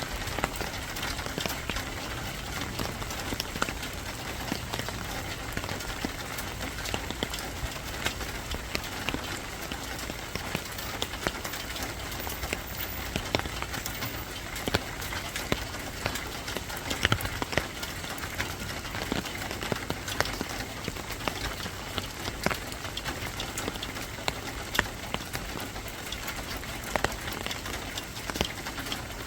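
Steady rain falling, an even hiss dotted with many irregular sharp drop ticks.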